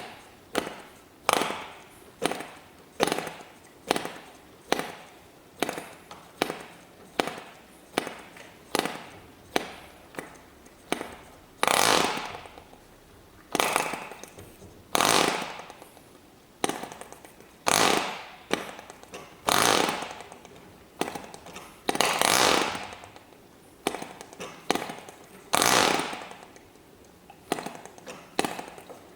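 ENYA 09 III model glow engine being cranked again and again, popping into a short burst of firing each time and dying straight away. Most bursts are brief and come about one a second, and from about halfway through several run for around a second before stopping. This is a hard start on an engine that leaks compression.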